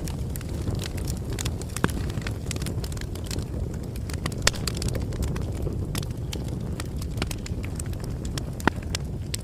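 Bonfire burning: a steady low rumble of flames with irregular sharp crackles and pops of burning wood, the loudest about two seconds, four and a half seconds and near the end.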